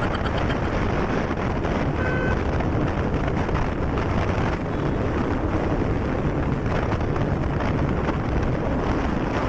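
Steady wind rush on the microphone with the running noise of a moving motorbike. A brief faint tone sounds about two seconds in.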